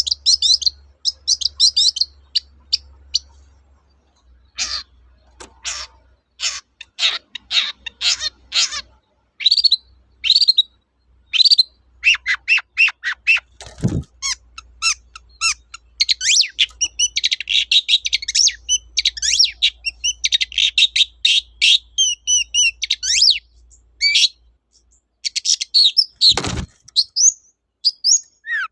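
Long-tailed shrike (cendet) singing in fast, varied bursts of high chirps and short trills, with brief pauses between phrases. Two sharp knocks cut in, one about halfway through and one near the end.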